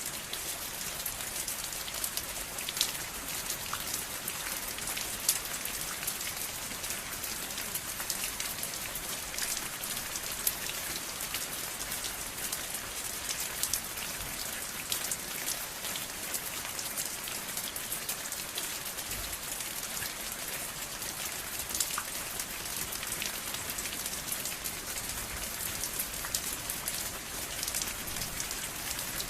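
Steady rain falling, with many separate drops pattering sharply on a surface.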